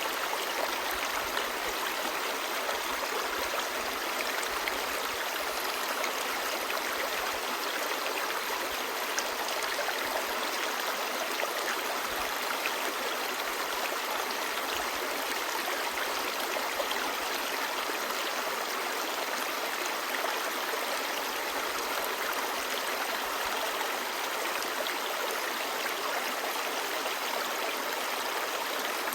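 Clear stream babbling steadily over rocks: an even rush of running water flecked with small splashes.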